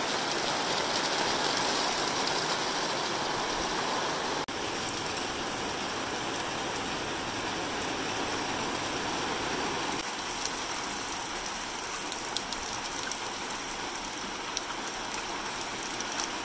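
Heavy rain pouring down steadily, with close drips and spatters ticking through it in the later part.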